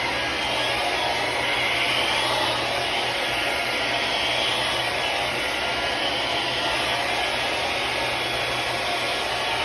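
Remington hair dryer running steadily: a continuous rushing blow with a low hum beneath, swelling gently now and then.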